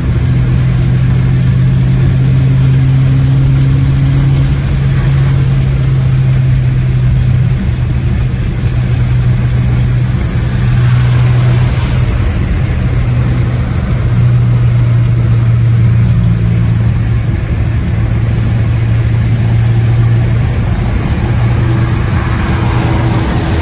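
Saab 9-3 Aero's turbocharged 2.8 V6, muffler deleted for straight 2.5-inch pipe, running loud at a nearly constant engine speed: a steady low exhaust note that wavers only slightly.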